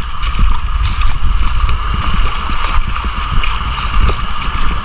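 Steady rush of water and wind buffeting the microphone, with scattered small splashes and knocks.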